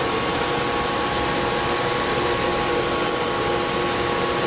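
Grain dryer fan running steadily: an even rushing of air with a few constant hum tones.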